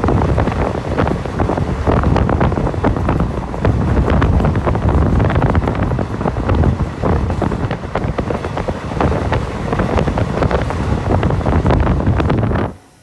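Moving train: rumble and rapid clatter of the wheels on the rails under heavy wind buffeting the microphone, cutting off suddenly near the end.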